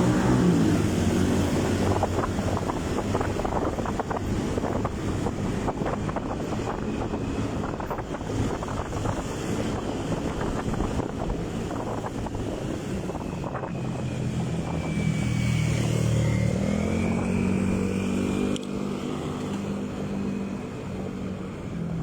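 Motorcycle engine running on the road, its pitch rising and falling as the revs change.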